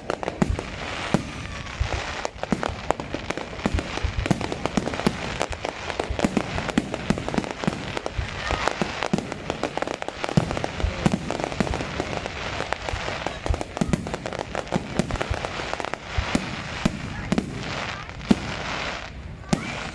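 Fireworks going off in quick succession: a dense, irregular run of bangs and crackling pops throughout, with voices in the background.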